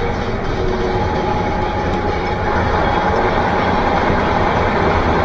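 Steady rumble of a moving vehicle picked up by a dashcam: road and engine noise at an even level throughout.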